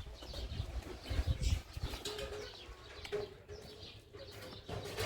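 Birds: fluttering and a low, steady call.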